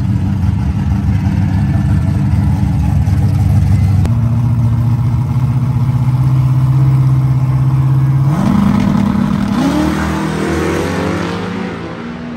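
Drag racing vehicle's engine held at high revs, the pitch stepping up twice, then rising and fading as the vehicle pulls away.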